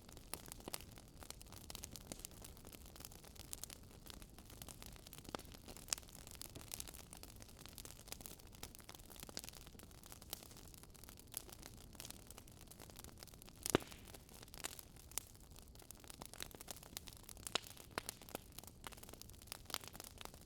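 Wood fire crackling: irregular sharp pops and snaps over a soft steady hiss, the loudest pop about fourteen seconds in.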